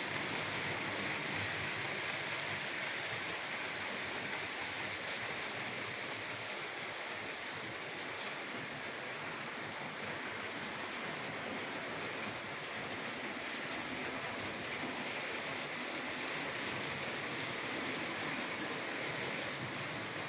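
H0-scale model trains running on the layout: a steady whirring hiss of small electric motors and wheels rolling on the track.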